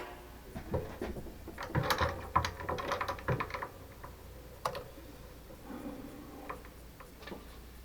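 Irregular light clicks and rattles of small metal tools or parts being handled, bunched together in the first few seconds, then a few single clicks.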